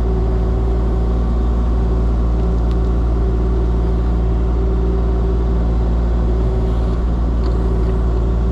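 Kubota heavy equipment diesel engine running steadily under a constant low hum.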